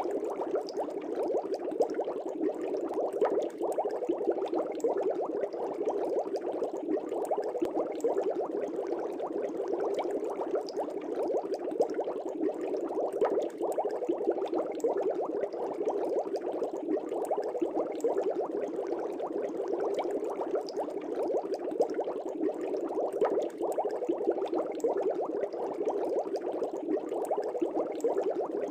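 Aquarium air bubbles rising and breaking at the surface in a steady, dense bubbling.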